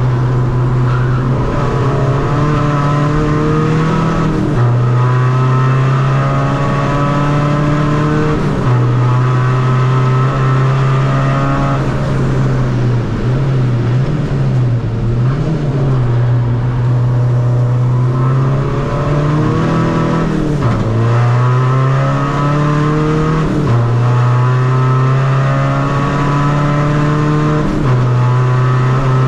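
Tuned Seat Ibiza FR's 2.0 four-cylinder common-rail diesel driven hard on track. The engine note climbs steadily and drops sharply at each upshift, about four times, with a spell in the middle where it dips and wavers as the car slows and accelerates again.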